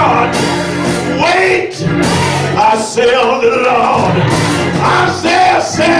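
Gospel church music: a voice singing in long, bending phrases over sustained low instrumental chords.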